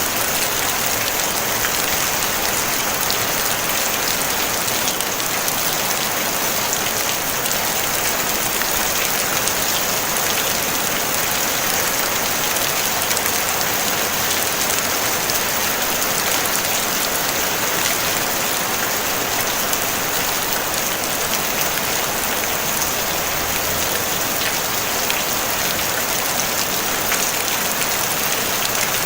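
Steady rain falling on a tin roof: a dense, even hiss with fine patter of drops, no thunder.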